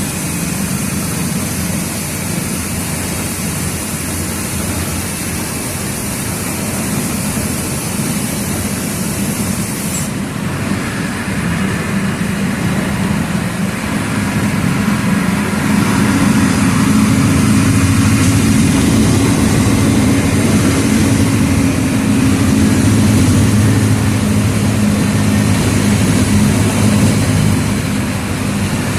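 Mercedes-Benz OF 1722M bus's diesel engine running on the road, with tyre and road noise. About halfway through, the engine note rises and gets louder as it pulls harder, holding there until it eases a little near the end.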